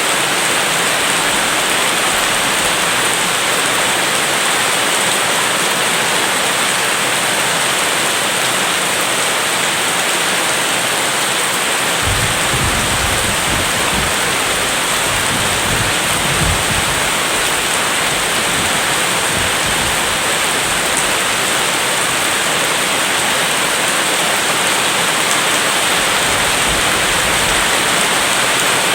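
Steady heavy rain, with a low rumble of distant thunder for a few seconds about midway.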